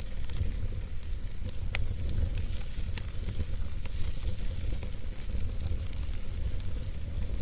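Fire burning in a fireplace: scattered sharp crackles and pops over a steady low rumble and a soft hiss.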